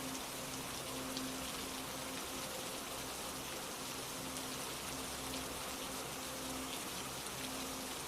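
Steady rain falling, an even hiss of many drops with small ticks of individual drops, over a faint held synth pad note.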